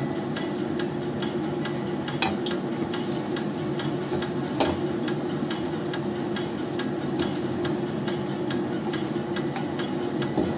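Turon (sticky-rice spring rolls) sizzling and crackling in a shallow layer of oil in a wok, with a slotted spatula knocking against the pan twice as the rolls are turned.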